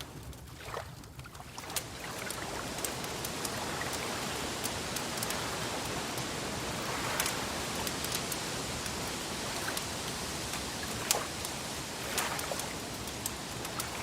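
Wood fire crackling: irregular sharp pops and snaps over a steady hiss, with a louder pop about eleven seconds in.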